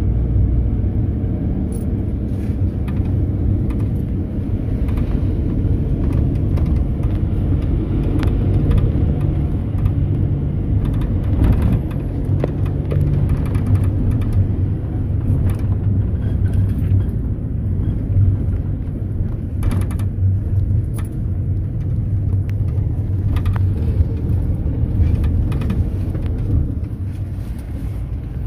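Mercedes-Benz Sprinter minibus on the move, heard from inside the passenger cabin: a steady low rumble of engine and road with an engine hum that shifts in pitch now and then, and scattered small knocks and rattles.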